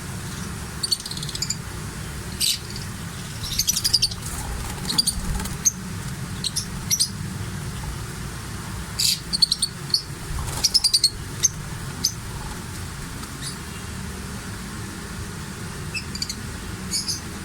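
Small birds chirping in short, high-pitched bursts that come in scattered clusters over a steady low hum.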